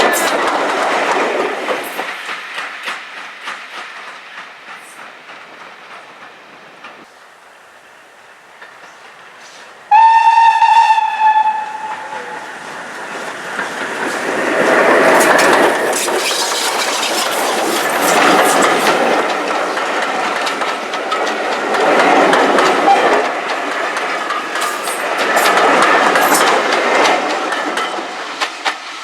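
A train passes and fades away, its wheels clicking over the rail joints. About ten seconds in, a steam locomotive whistle sounds once for about a second and a half, and then a steam train is heard working, its noise swelling and easing every few seconds.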